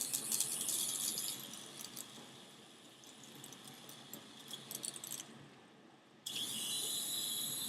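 Small toy RC helicopter's electric motor and rotor whirring with a high whine. The whine fades over the first few seconds, with scattered rattling clicks, then starts again abruptly about six seconds in.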